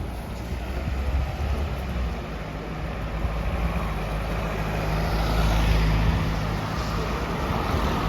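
City street traffic on wet pavement: a motor vehicle's engine runs steadily close by, and tyre hiss swells about five to six seconds in as traffic passes.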